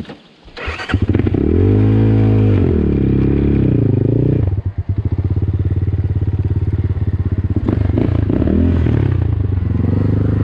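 Ataki DR 250 enduro motorcycle engine coming in loud about a second in. It revs up and falls back, dips briefly near the middle, then runs steadily, with another rise in revs near the end.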